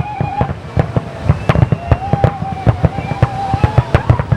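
New Year fireworks display: a rapid, dense string of bangs and crackles over deep booms. A steady whistling tone sounds briefly at the start and again for nearly two seconds from about two seconds in.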